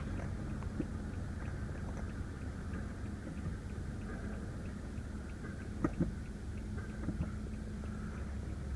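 Steady low hum inside a car cabin, with a few faint light clicks about six and seven seconds in.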